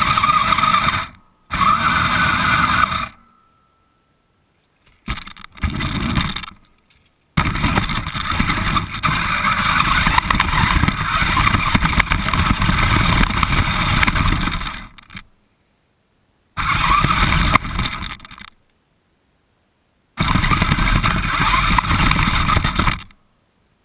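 RC car driving, heard from a camera mounted on the car: motor whine with rattling and scraping from the chassis and wheels over the ground. It comes in five bursts of a few seconds each, broken by complete silence.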